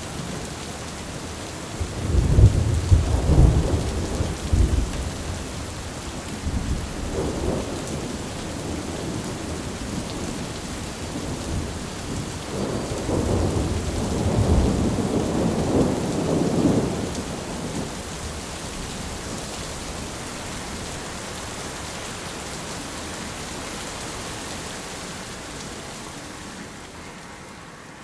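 Steady heavy rain with rolling thunder: a loud low rumble about two seconds in, a shorter one a few seconds later, and a longer one through the middle. The whole sound fades out gradually near the end.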